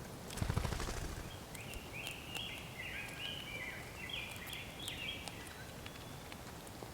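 Wild birds calling in a run of short, overlapping, clear notes lasting a few seconds, after a brief rustle in the first second.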